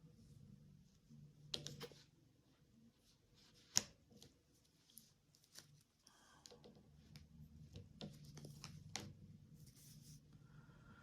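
Faint handling of tarot cards: a handful of light clicks and soft rustles, the sharpest about four seconds in, over a quiet room hum.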